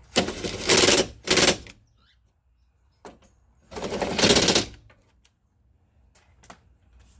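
Cordless power driver or ratchet running in three short bursts, a rapid rattling whirr, driving the mounting bolts of a car window regulator. The first and last bursts last about a second each, with a shorter one in between.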